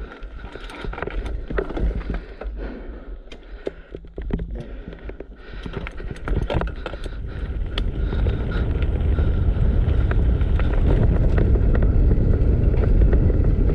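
Downhill mountain bike rolling over pavement: rattles and clicks from the bike, then a louder rumble of tyres and wind on the microphone that builds about eight seconds in as speed picks up.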